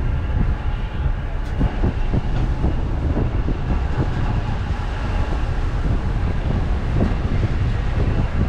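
Passenger ferry underway, heard from its deck: a steady low rumble with frequent short knocks and rattles.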